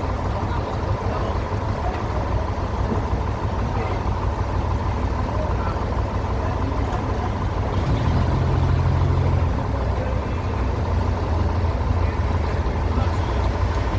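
Sawmill bandsaw machinery running with a steady low drone. It gets louder for about a second and a half past the middle.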